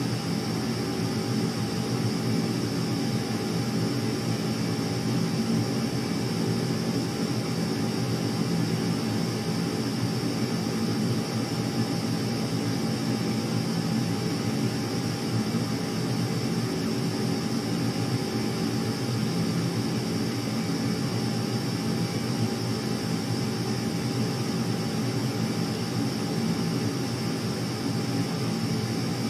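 Jet engines running steadily: an unchanging drone with a constant high whine, neither rising nor falling.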